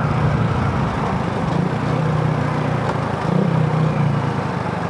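Motorcycle engine running at low speed in slow traffic, a steady low pulsing hum over road and wind noise.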